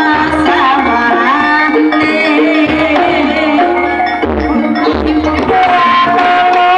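Loud live music through a sound system: a wavering, held melody line over hand drums and deep bass hits.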